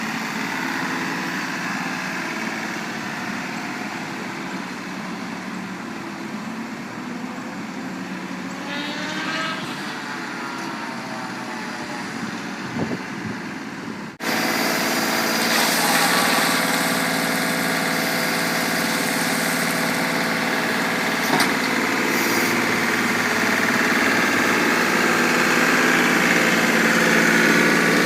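Tractor engine running steadily, with a brief rising-and-falling whine about a third of the way in; the sound turns suddenly louder about halfway through.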